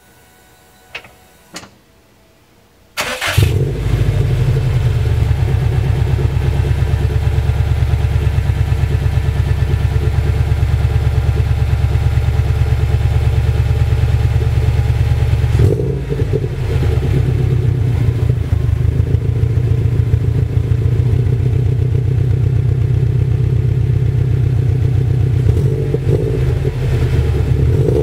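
2006 Subaru STI's turbocharged flat-four starting up about three seconds in, after two short clicks, then idling loudly and steadily through a catless downpipe and aftermarket axle-back exhaust. The idle note shifts briefly about halfway through.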